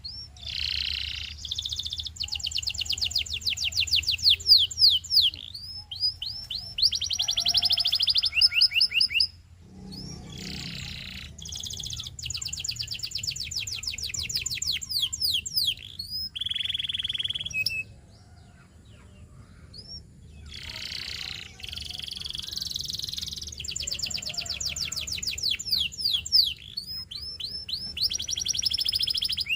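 Domestic canary singing: three long song bouts made of fast trills and warbled rolls, each broken off by a short pause. A faint low hum runs underneath.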